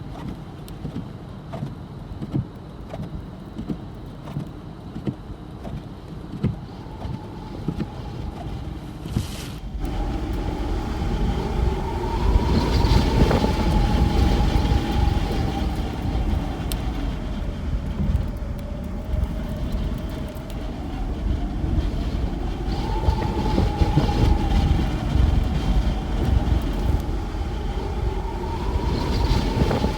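Wind and road noise heard from inside a vehicle driving through a blizzard in strong crosswinds: a steady low rumble with scattered clicks and a howling tone that slowly rises and falls. It gets louder about a third of the way through.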